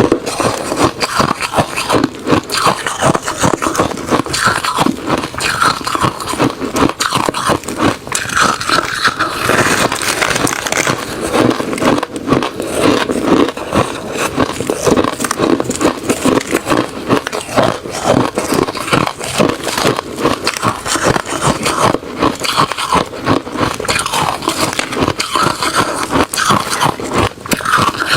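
A person biting and chewing refrozen crushed ice and shaved ice: a dense, unbroken run of loud crunches.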